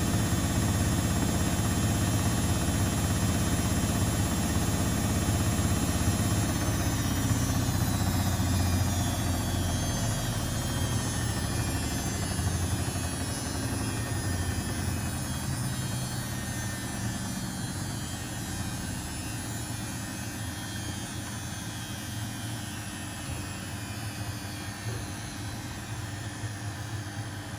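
Domestic laundry machines running: a steady motor hum with vibration that gradually gets quieter from about a third of the way in.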